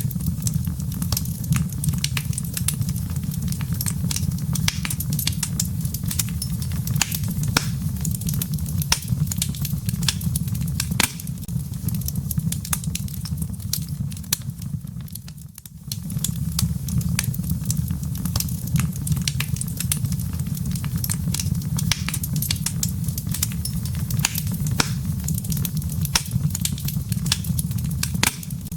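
Wood fire burning in a fireplace: a steady low rumble of flames with dense, irregular crackles and pops from the burning logs. The sound briefly fades and picks up again about halfway through.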